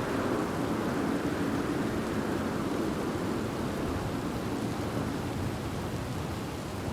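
Steady rain with a low rumble of distant thunder that slowly fades away.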